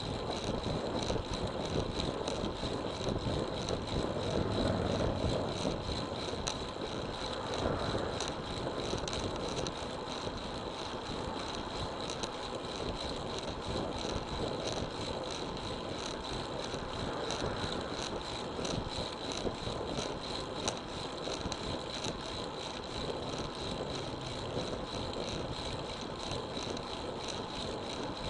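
Wind rushing over the microphone and tyre noise from a road bicycle being ridden, a steady noise that stays even throughout.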